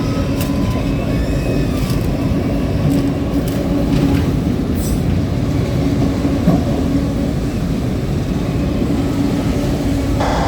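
Freight train rolling past on the rails: a loud, steady rumble of wheels with a low hum and a few scattered clicks.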